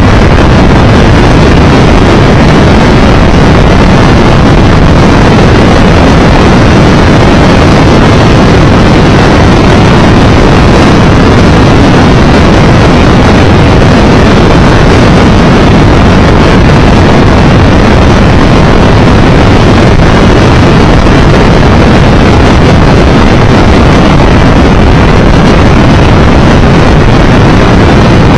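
Loud, steady wind roar on the microphone mixed with the drone of a Triumph Tiger Explorer 1200 motorcycle's inline three-cylinder engine cruising at road speed.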